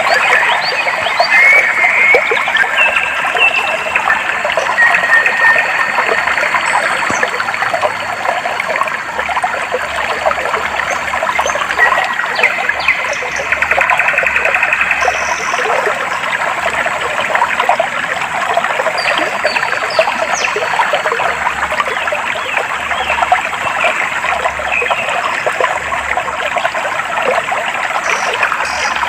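Clear stream water trickling and babbling steadily over stones, with short bird chirps and trills a few times over the top.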